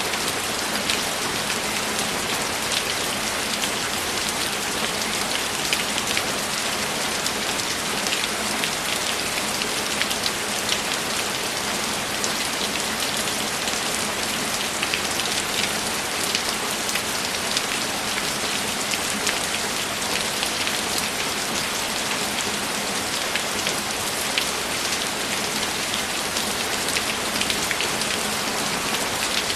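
Steady heavy rain falling on a surface, a dense even hiss with many fine drop ticks throughout.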